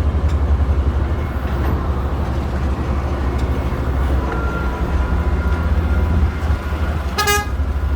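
A large engine running with a steady, pulsing low rumble. About seven seconds in there is a brief, high-pitched tone.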